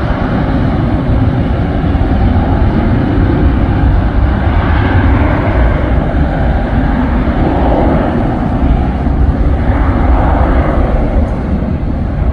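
Jet airliner engines heard from the ground, a loud, steady rumble as a plane passes, with wind buffeting the microphone.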